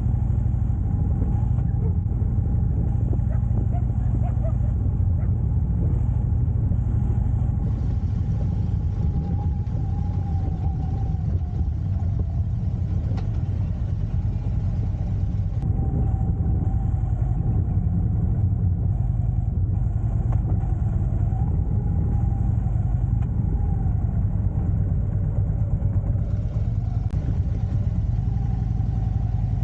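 A motorcycle engine running steadily, with a deep rumble and a wavering engine note.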